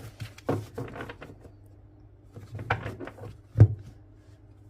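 A deck of oracle cards being handled and drawn: scattered card flicks and taps, with one louder knock about three and a half seconds in.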